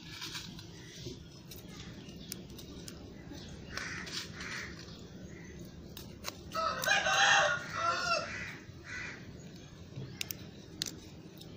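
A loud, drawn-out bird call lasting about a second and a half, some seven seconds in, with shorter, fainter calls and a few light clicks around it.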